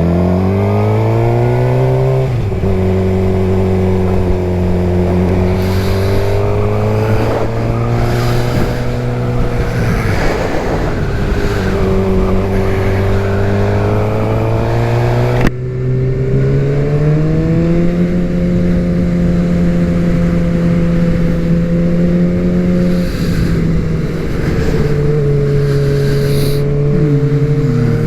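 Suzuki GSX-R750 sportbike's inline-four engine running under way, its pitch climbing and easing with the throttle and dropping sharply at gear changes, with wind noise over it.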